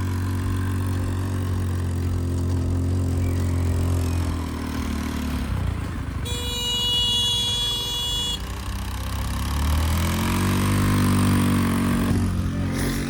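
A motor vehicle's engine running with a low, steady hum that eases off about four seconds in and builds again near the end. A steady high tone sounds for about two seconds midway.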